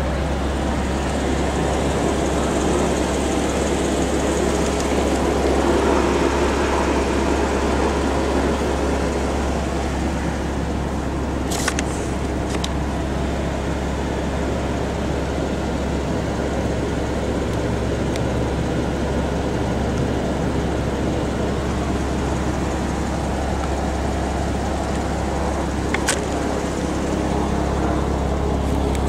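A 2008 Porsche Boxster S's flat-six engine idling with a steady low rumble. A few sharp clicks come about twelve seconds in and again near the end.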